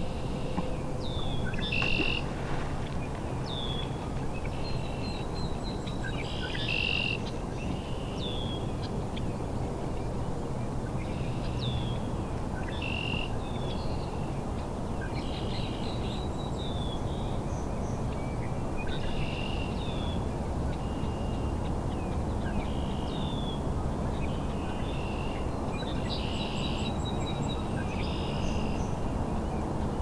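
Birds calling: short downward-sliding chirps and quick runs of high notes, in groups every few seconds, over a steady low background rumble.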